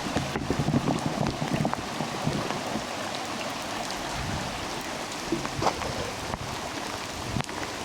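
Steady rain falling in a redwood forest, with scattered single drops landing close by. A few low thumps sound in the first two seconds.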